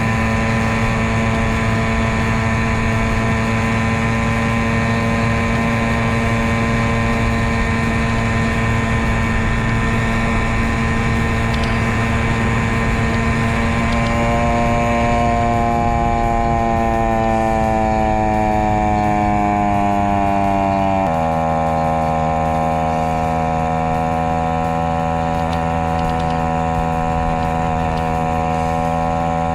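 Honda Monkey's small single-cylinder four-stroke engine pulling under load on an uphill climb, played back at double speed so it sounds high and buzzy. Its pitch holds steady, sinks gradually in the middle, then drops abruptly about two-thirds of the way through and holds steady at the lower pitch.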